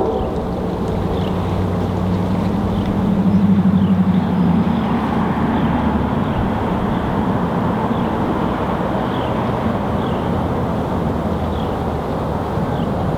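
A diesel-hauled train running past close by: a steady low engine drone under loud rolling wheel noise.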